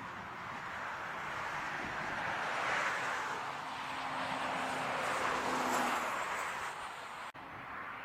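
Jet airliner engines on landing approach, a rushing roar that swells and eases with a faint steady hum under it, broken by a sudden brief cut about seven seconds in.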